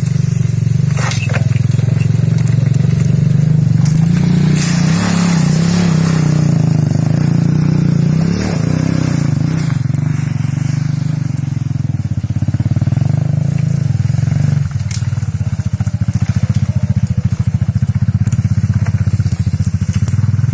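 Chinese 250cc ATV's 167FMM single-cylinder four-stroke engine running steadily, its pitch lifting a little around five seconds in, with a few sharp clicks near the start. From about fifteen seconds in it settles to an even, pulsing beat.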